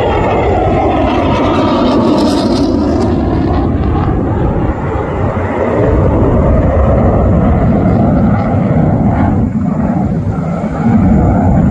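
Single-engine fighter jet flying a display pass, its jet engine noise loud and steady throughout, with a falling pitch in the first few seconds as it goes by.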